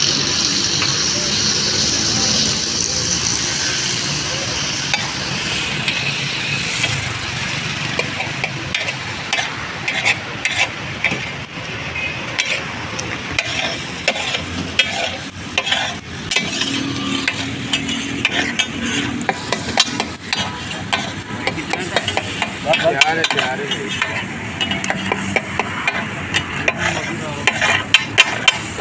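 Egg dishes sizzling on a big tawa griddle while a spatula stirs and scrapes across the hot iron. A strong hiss in the first few seconds gives way to many quick scrapes and knocks over a steady sizzle.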